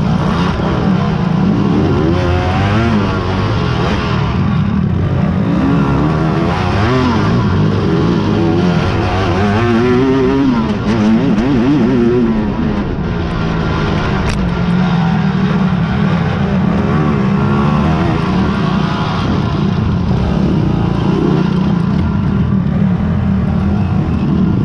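Engines of racing quads (ATVs) running continuously, revving up and down as they race over the course, with several engines overlapping at times.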